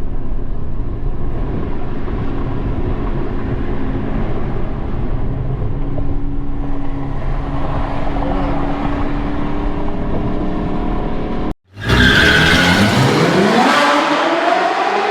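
Car engine and road noise as a steady low rumble, then, after a sudden break, a car engine accelerating hard, its pitch climbing steeply.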